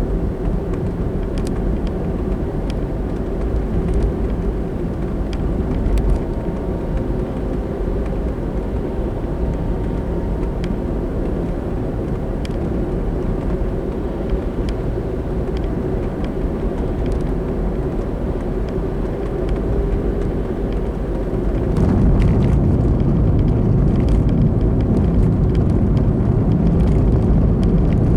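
Steady road and engine noise of a car driving, picked up by a dashcam. About three-quarters of the way through, the low rumble grows louder.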